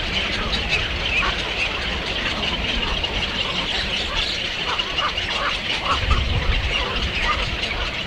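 Many birds chirping and calling continuously, with a low rumble underneath.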